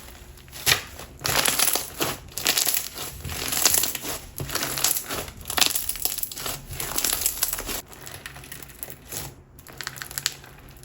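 Clear glue slime packed with lava rocks and silica beads being squeezed and worked by hand, giving dense crunching and popping crackles. The crackling is thickest for the first seven seconds or so and thins out near the end.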